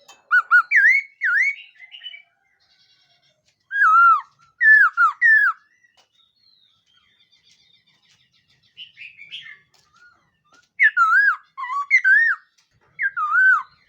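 A laughingthrush (khướu mun) singing loud, clear whistled phrases of swooping, warbling notes, in groups of several notes with pauses between, and a softer phrase in the middle.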